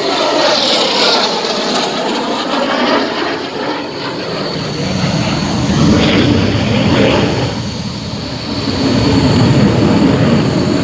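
F-16 Fighting Falcon's single jet engine running loud in a display pass over the airfield, with a steady high whine. In the first few seconds a sweep falls in pitch as the jet goes by, and the roar swells and eases several times.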